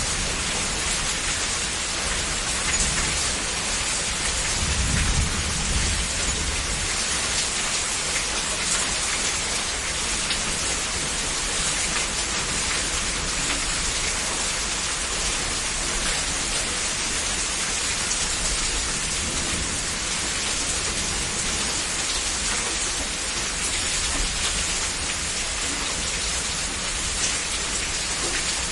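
Heavy, steady rainfall pouring down, with a low rumble of thunder swelling briefly about five seconds in.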